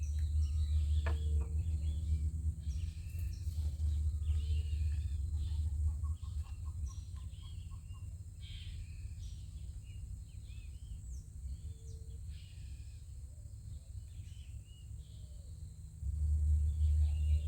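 Outdoor ambience of birds chirping and calling, with a low rumble for the first few seconds that drops away and returns near the end.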